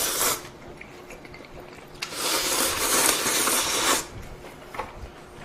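Slurping a mouthful of ramen noodles, a loud, hissing suck lasting about two seconds, starting about two seconds in, after a brief shorter slurp or breath at the start.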